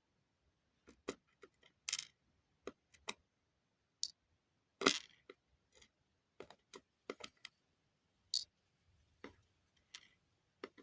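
Irregular light clicks and taps of small hard pieces being handled: small gold nuggets moved about on a hard surface, about twenty clicks with a few sharper ones.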